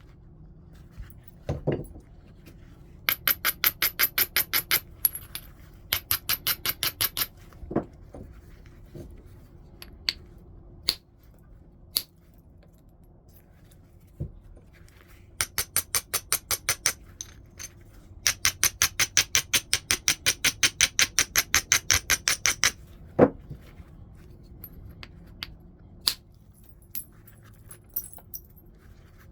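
Flintknapping: a tool worked against the edge of a stone preform in rapid runs of sharp, ringing clicks, several a second, in four bursts, the last and longest lasting about four seconds. A few single sharp knocks fall between the runs.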